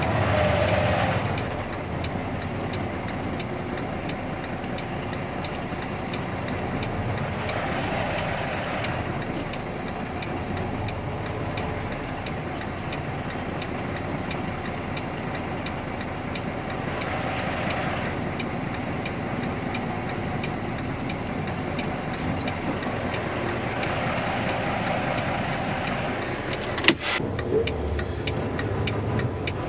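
Diesel semi-truck engine idling steadily, heard inside the cab, with a sharp click near the end.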